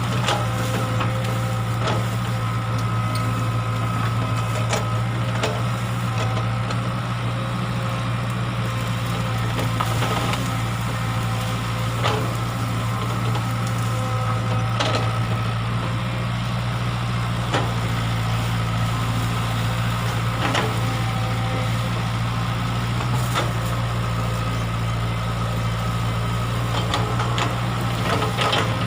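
Excavator's diesel engine running steadily, with a short knock or clank every few seconds.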